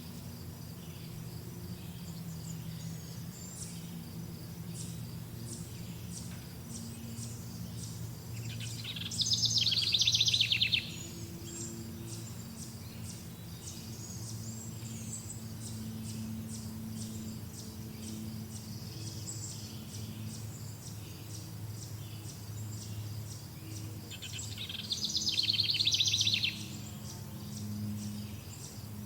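Wild birds singing: a loud, rapid trill comes twice, each lasting about two seconds, over constant high-pitched chirping and a low steady hum.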